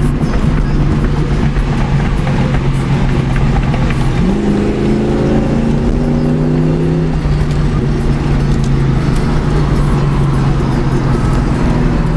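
Ford Mustang GT's 4.6-litre V8 heard from inside the cabin while cruising, a steady drone. The revs rise about four seconds in and fall back about three seconds later.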